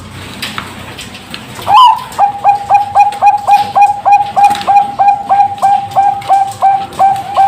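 Zebra dove (perkutut bangkok) singing: about two seconds in, a rising opening note breaks into a fast run of short, repeated cooing notes, about four a second.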